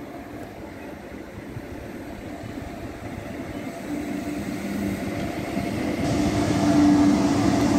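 DB Class 101 electric locomotive hauling Intercity coaches approaching and coming alongside, its rumble growing steadily louder. A low steady hum comes in about halfway through and is loudest near the end.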